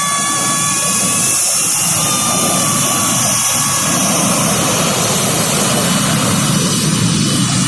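Express Air airliner's turbine engines running close by: a loud hiss with a high whine, and a low rumble that builds toward the end.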